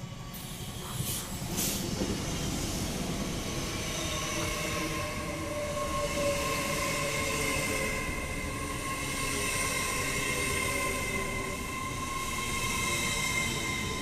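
TransPennine Express Class 802 multiple unit running alongside the platform: a steady rumble of wheels on rail with a high whine held on several tones. A couple of sharp clicks come between one and two seconds in.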